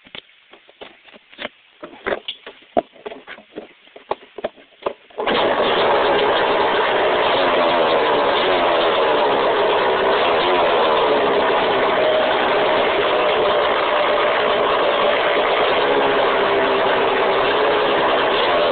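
Scattered clicks and knocks, then about five seconds in a dirt bike engine comes on abruptly and runs steadily to the end, its pitch wavering slightly.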